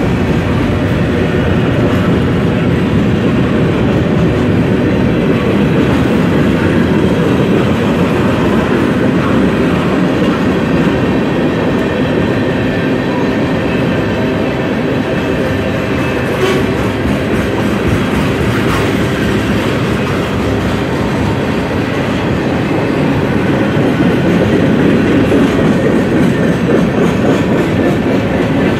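Long freight train of covered hopper and tank cars rolling past: a steady, loud rumble of steel wheels on the rails with the clatter of the cars.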